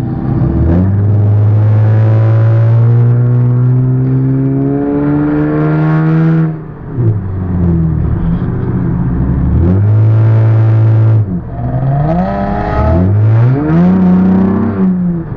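Car engine accelerating hard through the gears: its pitch climbs for several seconds, drops at a shift about six and a half seconds in, climbs and holds, drops again at another shift near eleven seconds, then climbs once more.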